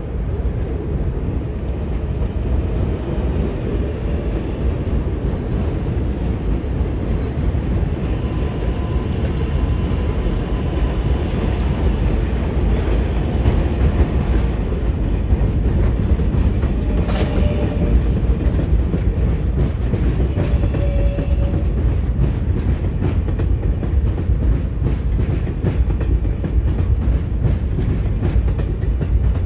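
R188 subway train on the 7 line running on the track: a steady, loud rumble of wheels on rail.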